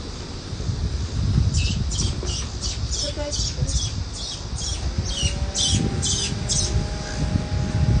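A bird giving a quick series of about a dozen harsh, high calls, two or three a second, that stop before the end. Low rumble of the phone being handled runs underneath.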